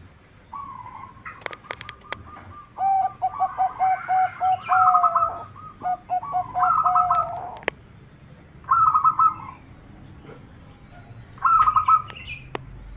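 Zebra dove (perkutut) cooing in five bouts of quick, stuttering trilled coos, with two pitches overlapping in the middle bout. A few sharp clicks come through near the start and again about halfway through.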